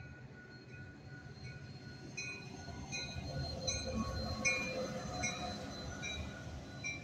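Metra diesel locomotive and stainless-steel bilevel commuter coaches rolling through a grade crossing, the rumble of engine and wheels swelling about two seconds in and loudest near the middle. The crossing's warning bells ring steadily over it in an even, repeating rhythm.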